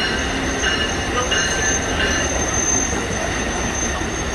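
Amtrak Viewliner passenger cars rolling past on steel rails: a steady rumble of wheels with a thin, high, steady wheel squeal over it and a few clicks from the wheels.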